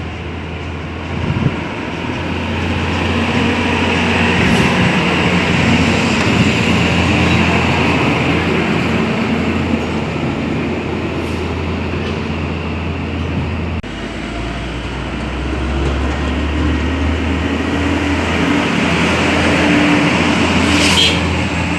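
Heavy trucks' diesel engines running steadily amid road traffic noise, with a low engine rumble. The engine note shifts abruptly about two-thirds of the way through.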